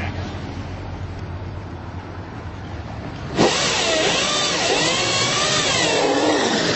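KillaCycle electric drag motorcycle held on the brake with a low hum, then suddenly taking off about three and a half seconds in: a loud rush of noise with wavering squeals that rise and fall. The throttle has stuck on and the bike gets away from its rider.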